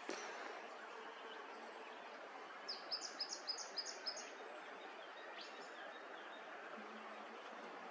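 A small bird calling: a quick run of about eight high, rising chirps about three seconds in, then one more a second later, over a steady outdoor background hiss.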